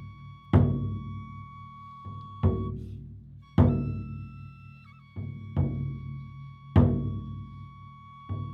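Japanese taiko drums struck in slow, heavy single beats, each booming and ringing out before the next. A high note is held over the drumming for a few seconds at a time.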